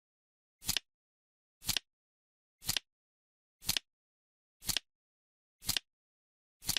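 Clock-tick sound effect of a countdown timer, ticking once a second: seven crisp ticks, each a quick double click, with dead silence between.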